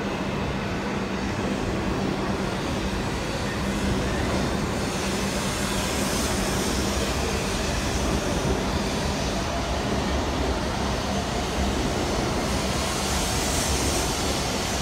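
Hokuriku Shinkansen train pulling out of the station, its cars rolling past at low speed with a steady rumble and a low hum. A hiss swells about five seconds in and again near the end.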